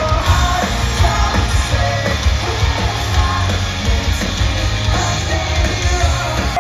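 Live pop-punk rock band playing loud, with pounding drums, bass and electric guitars and a voice singing over them, heard from within the audience.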